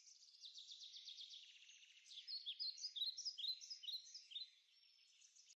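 Faint bird chirping: a quick run of soft ticks, then a series of short, falling high chirps from about two seconds in until near the end.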